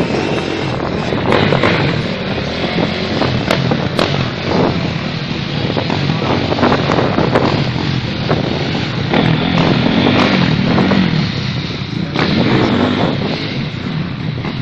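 Motocross dirt-bike engines running and revving on the track, the pitch wavering up and down, with short sharp bursts throughout.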